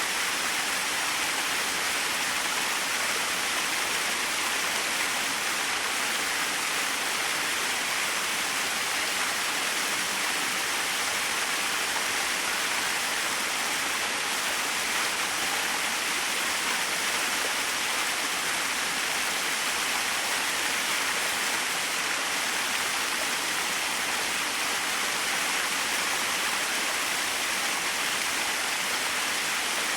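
Small waterfall splashing, a steady even rush of falling water.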